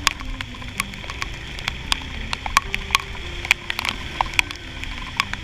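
Raindrops striking a helmet-mounted action camera in sharp, irregular ticks, several a second, over the low, steady running of a Honda Click 125i scooter's single-cylinder engine.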